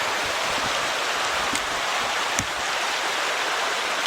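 Stream water rushing steadily, with a short knock about two and a half seconds in.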